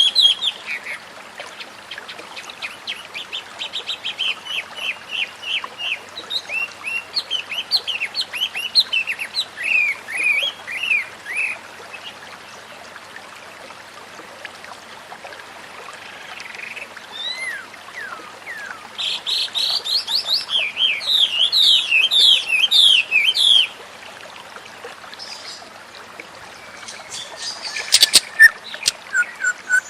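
White-rumped shama (murai batu) singing: several bursts of fast, repeated chirps and trills with quieter gaps between them, ending in sharp, clipped notes.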